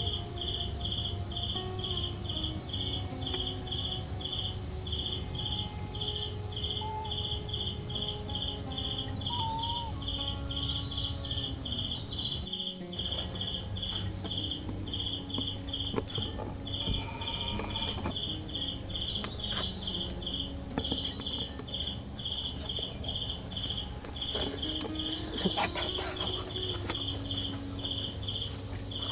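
Insects chirping in an even rhythm, a little over two chirps a second, over a continuous high-pitched buzz.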